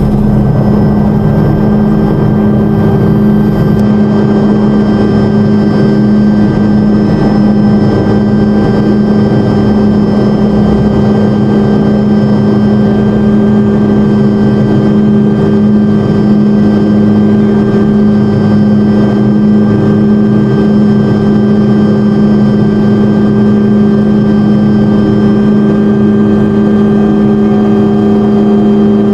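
Helicopter heard from inside the cockpit in steady flight: a constant loud drone of engine and rotor, with a strong steady hum and fainter high-pitched whines above it.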